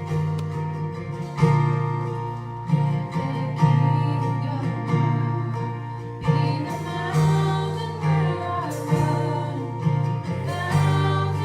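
Live band playing the intro of a worship song: acoustic guitar strumming chords over a bass line that changes note about once a second, with a gliding melody line coming in over the second half.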